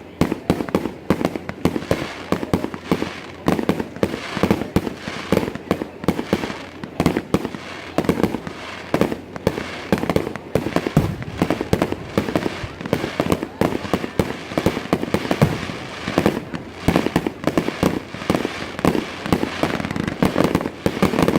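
Fireworks display: a dense, unbroken barrage of shell bursts, many bangs every second.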